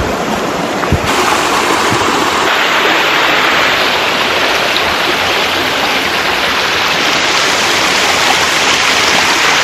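Rushing river water, a steady loud flow over rocks, with one low knock about a second in.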